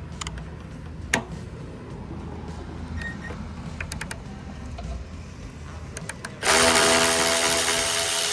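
A few light clicks of tools being handled, then about six and a half seconds in a power drill/driver runs loudly and steadily, spinning out a bolt.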